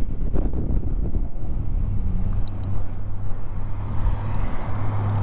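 Motorcycle engine running with a steady low hum, picked up by a microphone inside the rider's helmet. A rush of wind and road noise builds from about four seconds in.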